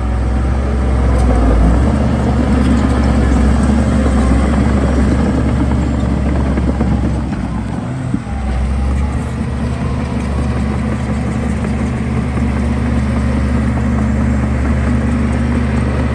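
Heavy diesel engine of earthmoving equipment running steadily under load, with a brief drop in level about halfway through before it picks up again.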